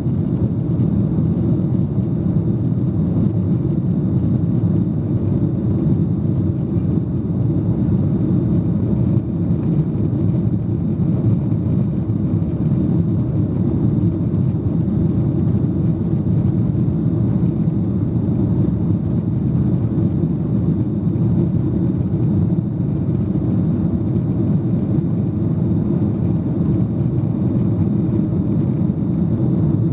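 Steady low rumble inside the cabin of a Boeing 737-800: its CFM56 turbofan engines and the airflow heard from a seat over the wing, even and unchanging.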